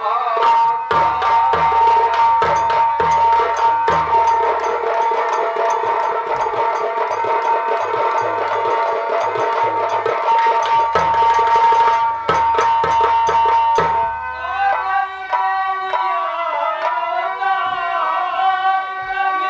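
Nautanki stage band music: fast, dense drumming under a long held high note. About two-thirds of the way through, the drumming thins and a wavering melodic line takes over.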